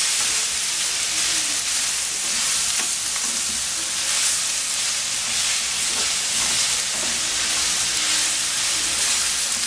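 Chicken pieces, broccoli and onion sizzling steadily in a very hot stainless steel skillet over a high gas flame, stirred with a spatula.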